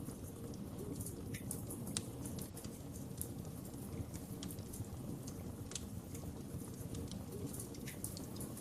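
Wood fire crackling: irregular sharp pops and snaps over a steady low rush of flames, with a louder pop about two seconds in.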